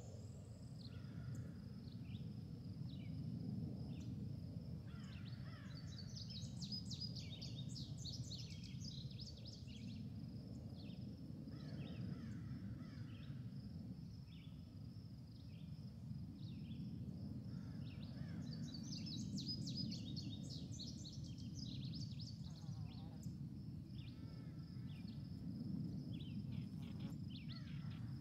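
Birds calling over a steady low rumble and a constant high-pitched tone. Two long bursts of rapid high chirping, about a third of the way in and again around two-thirds of the way in.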